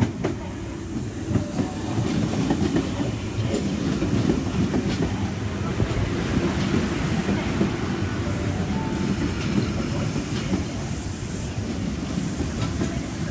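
Sydney Trains K-set double-deck electric train running alongside the platform: a steady low rumble with scattered clicks from the wheels over the rails.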